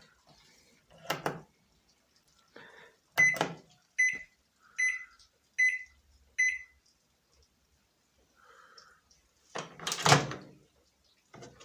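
Panasonic microwave oven keypad beeping five times, evenly about a second apart, as buttons are pressed, preceded by a couple of clunks. A loud door clunk comes near the end.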